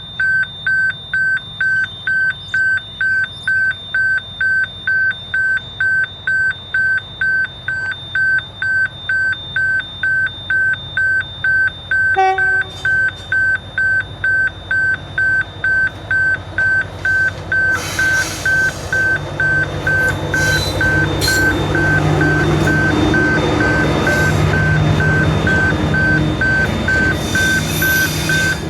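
Level crossing warning alarm beeping steadily at a high pitch, about one and a half beeps a second. From about two-thirds in, the rumble and wheel noise of a diesel-hauled narrow-gauge sugar train grow louder under the beeps as the train reaches the crossing.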